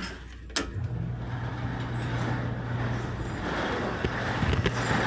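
A switch clicks about half a second in, then a dairy barn cleaner's electric motor starts and runs with a steady hum as the gutter chain starts moving, with a few knocks near the end.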